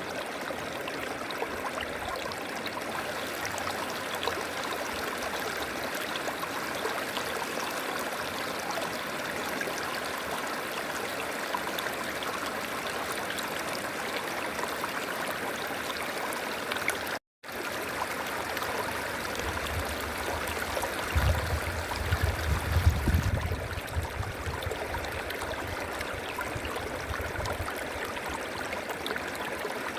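River water running steadily. The sound cuts out for an instant a little past halfway, and a low uneven rumble comes in for a few seconds near twenty seconds in.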